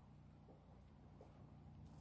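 Near silence: a faint steady low hum with a few very faint ticks.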